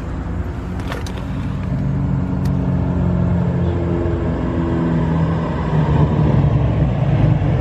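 A motor vehicle's engine running, its pitch shifting and its sound growing steadily louder, as of a vehicle approaching. A couple of short clicks sound about a second in.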